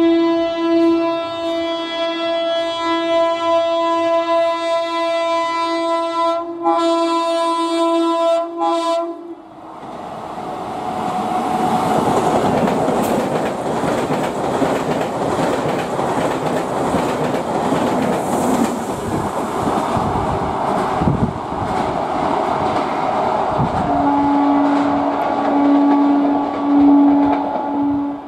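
MEMU electric train sounding one long steady horn blast for about nine seconds as it approaches. It then rushes through at speed with a clatter of wheels over the rail joints. Near the end another MEMU's horn sounds over the running noise as it approaches.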